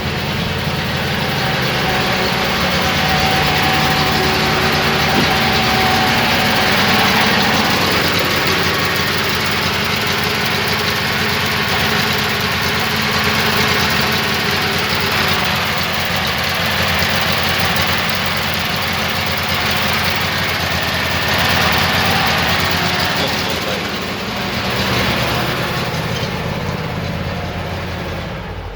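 ZAZ Zaporozhets air-cooled V4 engine running just after starting, held at a fast idle with slight rises and falls in speed. The gas pedal isn't working, so the throttle is being worked another way.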